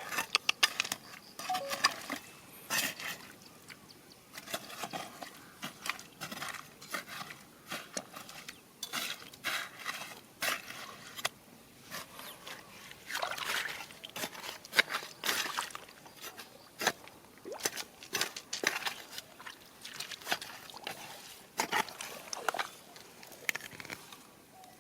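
Water splashing and sloshing with many irregular sharp clicks and knocks, from digging through a mountain riverbed's stones and gravel.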